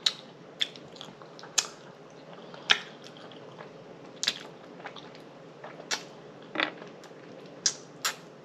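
Close-up chewing with wet lip smacks and mouth clicks, coming at an irregular pace about once a second.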